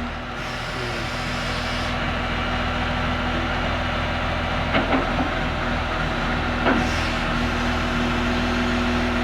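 Heavy engine running steadily at idle, with two short knocks about five and seven seconds in.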